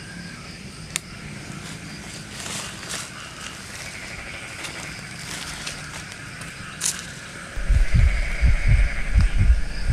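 Night-time outdoor ambience with a steady high chirring, typical of insects, and two sharp clicks. About three-quarters of the way through, loud, irregular low thumps on the microphone take over and become the loudest sound.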